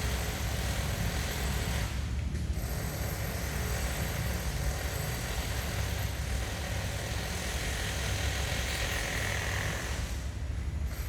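A small engine running steadily with a low rumble and a rattling, mechanical texture.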